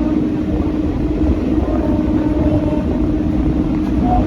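EMU local train running: a steady rumble with a constant hum held on several pitches.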